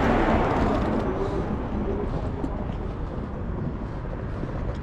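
Street traffic noise, a vehicle going by and fading away, with low rumble on the microphone.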